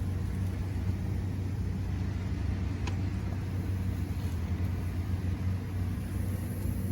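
Heavy truck engine idling, a steady low rumble, with one faint click about three seconds in.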